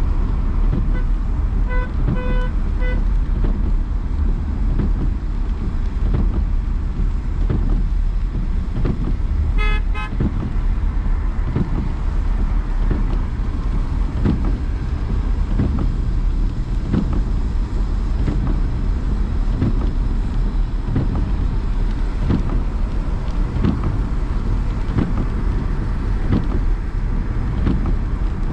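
Steady low rumble of a car driving through city traffic, road and wind noise, with a car horn tooting about four short beeps near the start and a different, higher horn sounding once briefly about a third of the way in.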